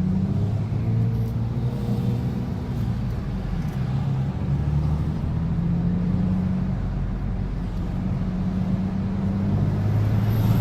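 Vehicle engine running at idle, a steady low hum that grows a little louder near the end.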